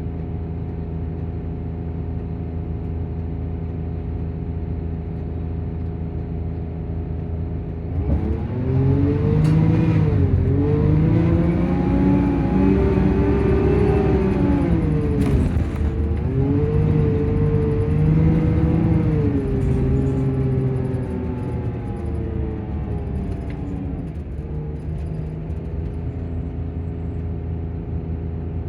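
Volvo Plaxton coach's diesel engine and cooling fan running at a steady idle. About eight seconds in it gets louder and the pitch climbs, dropping sharply twice and climbing again, then falls back to the steady idle about two thirds of the way through.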